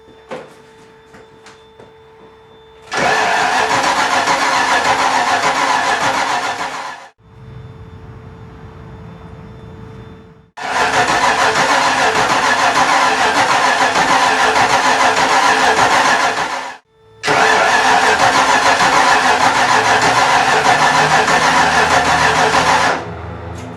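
Ford 5.0 V8 being cranked over in three long bursts that start and stop abruptly, with a quieter low rumble in the gap after the first. After the last burst, near the end, a lower, steadier engine sound carries on. The engine is hard to start, which the owner puts down to the distributor being installed about a tooth off.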